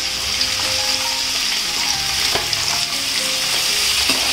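Sliced potatoes sizzling steadily in hot oil with peanuts in a kadhai as they are stirred with a slotted spoon, with one brief knock about halfway through.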